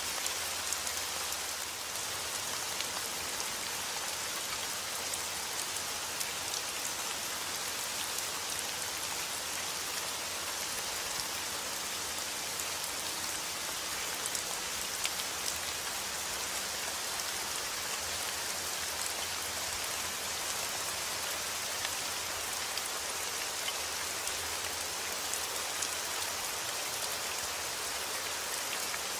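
Steady heavy rain falling outdoors, a constant hiss with scattered drop ticks.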